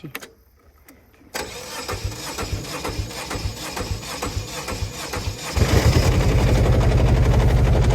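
Combine harvester's engine being started: the starter cranks with uneven low pulses for about four seconds, then the engine catches and runs steadily and louder.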